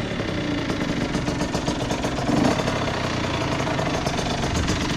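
Honda CR80's 80cc single-cylinder two-stroke engine idling in a fast, steady patter of firing pulses, with a slight swell about two and a half seconds in. The idle is set a little too low.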